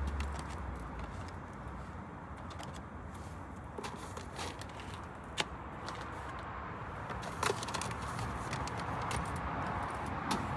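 Steady background hum with scattered light clicks and clinks, the sharpest about five and seven and a half seconds in.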